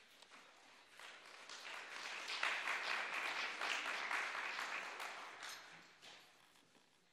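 Audience applause that builds up about a second in, is at its loudest through the middle, and dies away near the end.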